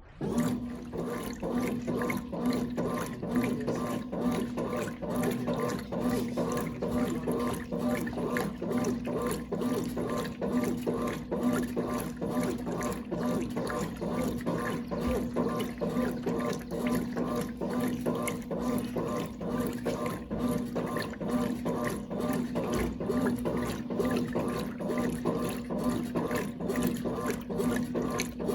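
Brastemp Clean washing machine with water pouring and splashing into its tub over a steady hum.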